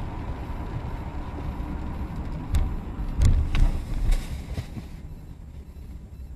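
Vehicle road and engine noise, with a cluster of heavy thuds and sharp knocks about halfway through, after which the noise dies down.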